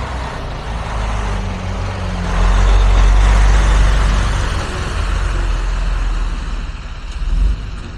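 Semi truck running, heard from inside the cab: a low engine rumble under a broad rushing noise that swells about two seconds in and eases off toward the end.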